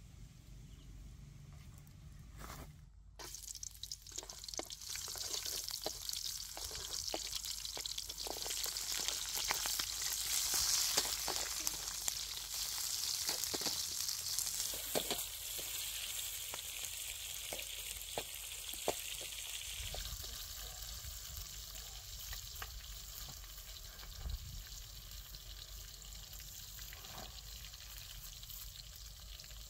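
Chilies, lemongrass, garlic and basil leaves sizzling in hot oil in a steel wok over a wood fire. A metal spatula scrapes and taps against the wok as they are stirred. The sizzle starts about three seconds in, is loudest a few seconds later, then settles to a quieter steady sizzle once the stirring clicks stop about two-thirds of the way through.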